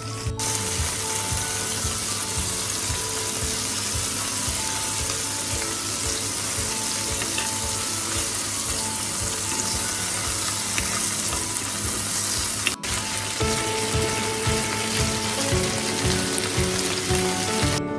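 Chicken thigh pieces sizzling steadily in oil as they fry skin-side down in a small rectangular tamagoyaki pan. The sound cuts out for an instant about two-thirds of the way through.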